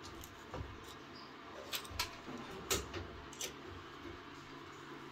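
A handful of light clicks and taps, about five spread over a few seconds, from small metal parts such as screws being handled during washing-machine repair work.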